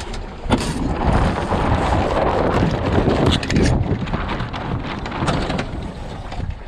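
Wind buffeting the microphone aboard an Enterprise sailing dinghy under way, with water rushing and a few sharp knocks; the rush swells louder for a few seconds in the middle.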